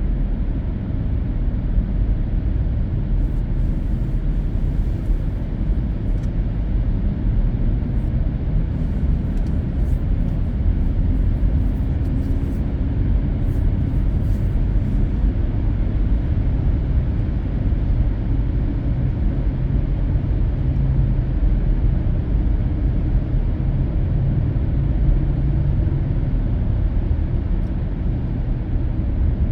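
Steady road noise of a car driving at expressway speed, heard from inside the cabin: an even, low rumble of tyres and engine.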